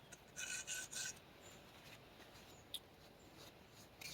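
Three short rubbing strokes, likely a hand on the metal bearing race in the tractor's front axle housing, then a single light click near three seconds in.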